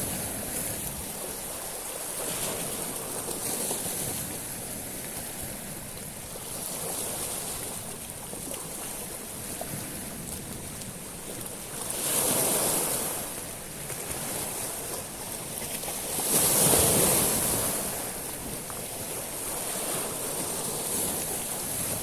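Sea waves washing over a shingle beach of small stones, with a steady hiss of surf and two bigger waves breaking and running up the stones about halfway through and later on.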